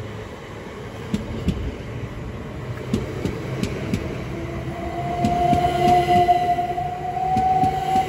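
Class 377 Electrostar electric multiple unit moving through the station, its wheels clicking over rail joints again and again. From about five seconds in, a steady motor whine comes up, rising slightly in pitch and growing louder.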